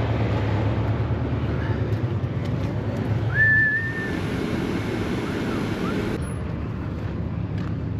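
Truck engine idling steadily, with one short high whistle-like squeak that rises and then holds for under a second about three and a half seconds in.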